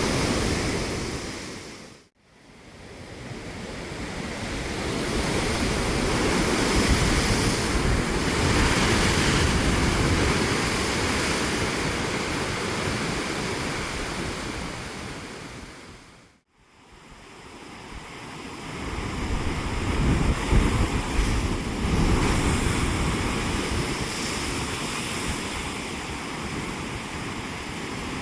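Ocean surf: a steady rush of breaking waves, fading out to silence and back in twice, about two seconds in and again past halfway.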